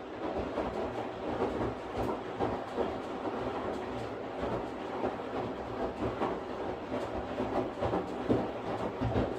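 Washing machine running: a steady rushing, rattling noise with irregular small knocks. It starts abruptly at the very beginning after a quiet pause.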